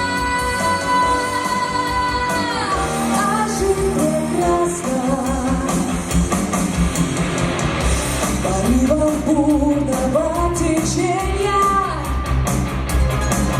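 A song with a singer and band: a long held high note slides down about two and a half seconds in, then the singing carries on in moving phrases over a steady beat that comes in stronger about eight seconds in.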